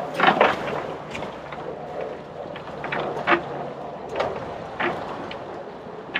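Gusting wind on the microphone over water noise on a small boat, broken by about half a dozen irregular sharp knocks and slaps.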